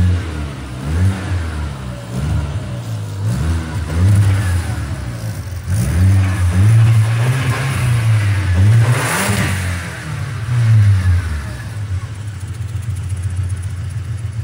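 Volkswagen Passat B5's 1.8-litre turbocharged four-cylinder engine, heard from under the car, revved in a series of short blips with one longer hold in the middle, then settling back to a steady idle near the end. The engine is being run to test the freshly welded exhaust.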